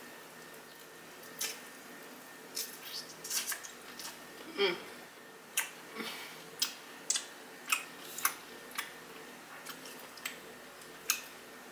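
Close-miked chewing of a chicken wing flat dipped in buffalo hot sauce: an irregular run of short, sharp wet smacks and clicks from the mouth.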